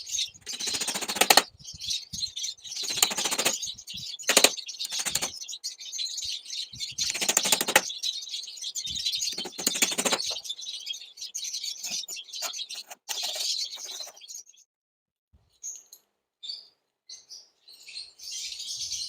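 Small birds chirping and chattering without a break, with several louder bursts of rapid clattering or fluttering in the first ten seconds, then only scattered chirps.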